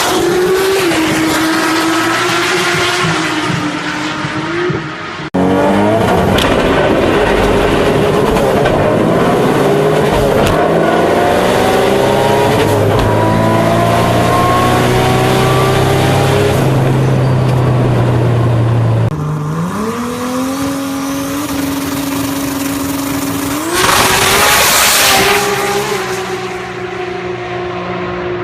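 Big-turbo Toyota Supra engine running loud and accelerating, its pitch climbing through long pulls, with a sudden rise in revs and a brief loud rushing burst about three-quarters of the way through.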